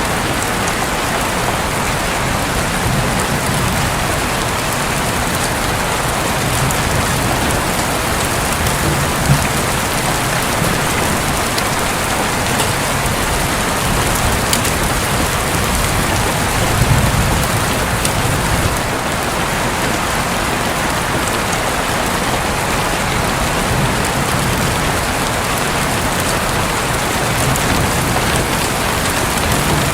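Steady rain falling on a roof, with soft low rumbles of thunder now and then, the strongest a little past the middle.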